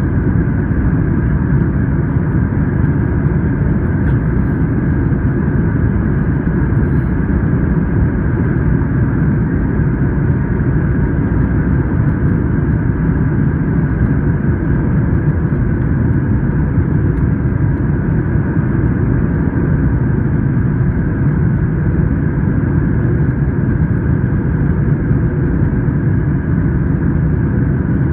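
Steady engine and airflow noise of a Boeing 737-900 heard inside the passenger cabin: a constant low rumble with a few steady whining tones over it, unchanging in level.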